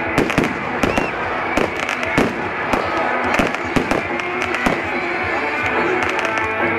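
Fireworks going off: a rapid run of bangs and crackles from bursting shells that thins out after about five seconds, over background music.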